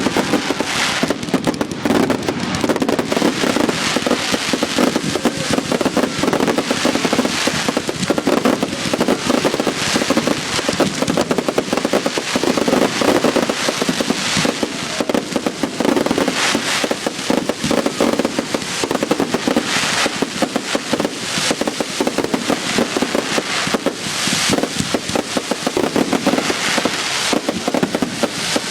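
Fireworks going off in rapid, unbroken succession: a dense crackle of many bangs overlapping, with no pause.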